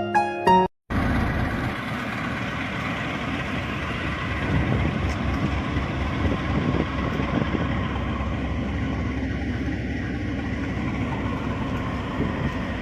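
A steady rumble of a vehicle in motion that runs on without change. It follows a snatch of background music that cuts off within the first second.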